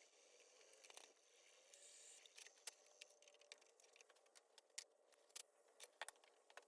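Near silence with a scattering of faint, sharp clicks and light taps, more of them in the second half.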